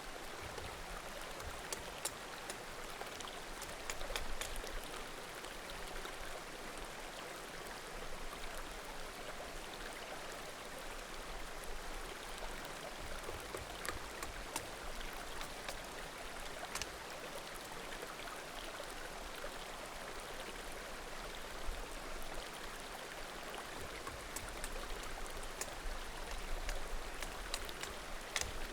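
Small mountain creek babbling steadily, with scattered sharp pops and crackles from burning firewood in a bonfire.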